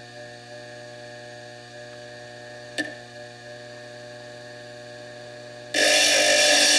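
Steady electrical hum with a single click about 3 s in. Near the end, a Foredom bench lathe's burr starts grinding the fire agate, coming in suddenly and much louder.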